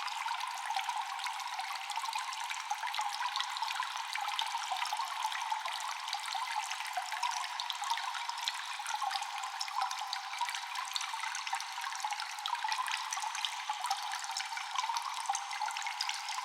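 Water dripping and trickling in a cave with echo: many small drops falling in quick, irregular succession over a steady watery hiss.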